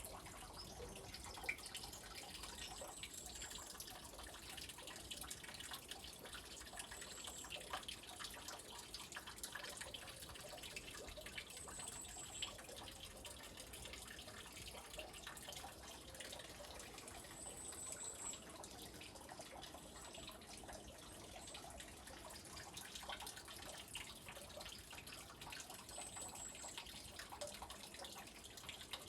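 Spring water running and trickling steadily, with short, high-pitched bird chirps every few seconds.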